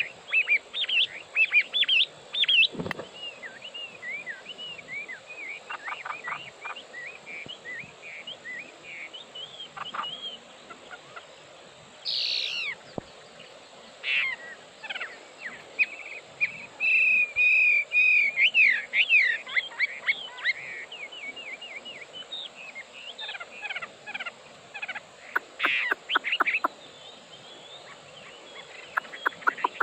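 Chinese hwamei singing a long, varied song of loud whistled phrases, sliding notes and quick trills, with short pauses between phrases and a fast run of repeated notes near the end.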